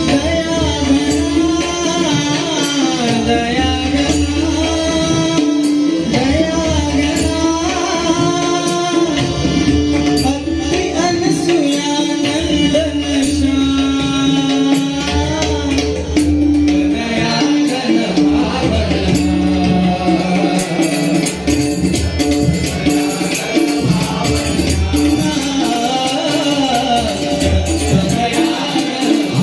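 Devotional abhang bhajan music: a sung, wavering melody over a held drone, with drum strokes and jingling hand percussion.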